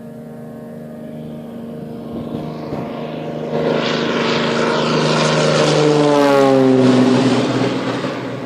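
Light propeller aircraft at full takeoff power, its engine and propeller growing louder as it approaches. It passes close by about six to seven seconds in, its pitch dropping as it goes past, then fades.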